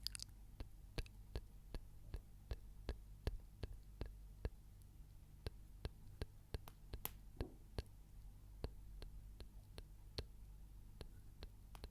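Faint, light clicks, about two or three a second in an uneven rhythm, over a steady low hum.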